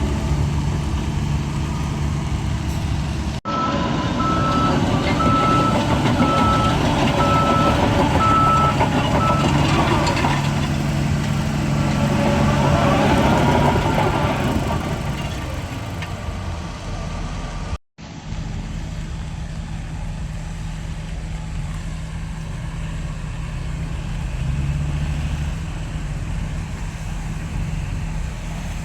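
Heavy diesel earthmoving machinery running steadily, with a reversing alarm beeping at an even pace for about six seconds early in the stretch. The sound drops out briefly twice at edits.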